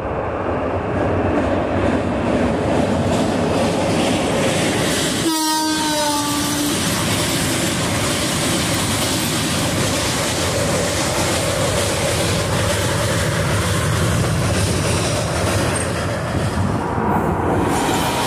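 Electric-hauled Indian Railways express train passing close by at speed: a continuous rumble and rattle of the coaches over the rails and bridge. About five seconds in, the locomotive's horn sounds once for over a second.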